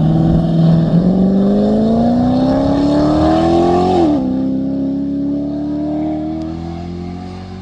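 A land-speed racer's engine accelerating hard from the start of a mile run, its pitch climbing steadily, then dropping sharply on an upshift about four seconds in and climbing again. The engine pulls cleanly with good shifting, no cutouts or hesitations.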